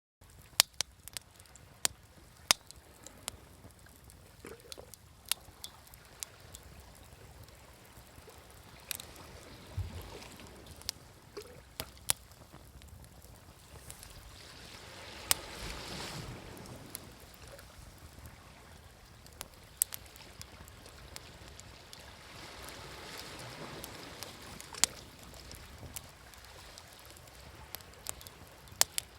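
Campfire crackling with sharp, irregular pops, over waves washing on a shore; the wash swells about halfway through and again a few seconds later.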